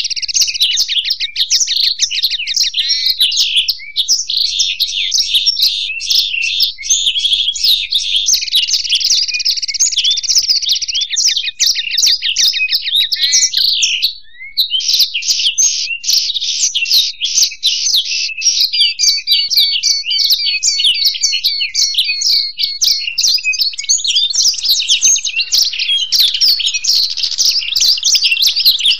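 Black-throated canary (blackthroat) and European goldfinch singing together nonstop, with fast chattering phrases and rapid trills. The song breaks off only briefly about halfway through.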